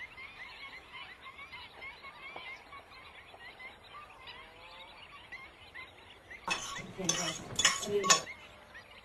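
Small birds chirping in quick, rapid succession, with many short high chirps. Near the end come three loud, harsh bursts.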